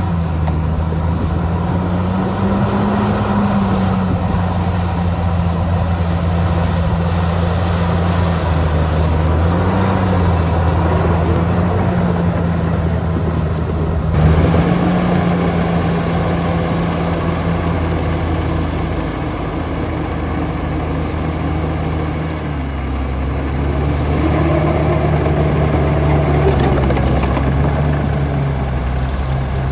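Diesel engine of heavy earthmoving machinery running steadily, its note rising and falling slightly with load. A short knock sounds a bit under halfway, and the engine note shifts lower about three-quarters through.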